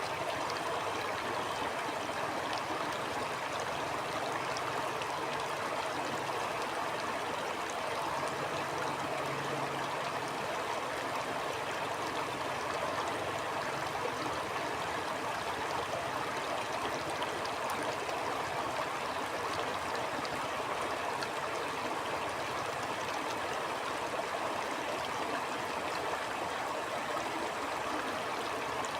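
A stream flowing: an even, steady rush of running water with no breaks or separate events.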